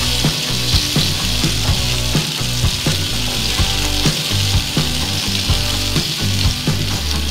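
Chopped tomatoes sizzling in hot oil in a nonstick frying pan, stirred with a silicone spatula that scrapes through them.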